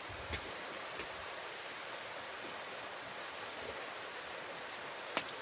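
Mountain stream rushing steadily, with a short click about a third of a second in and another near the end.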